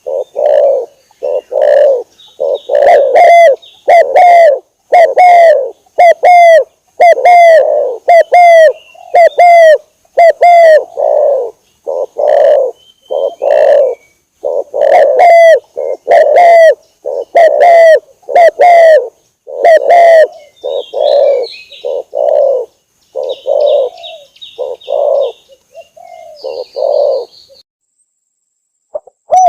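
Spotted dove cooing loud and close, a rapid run of short repeated coo notes that stops shortly before the end. A small bird chirps faintly behind it in the second half.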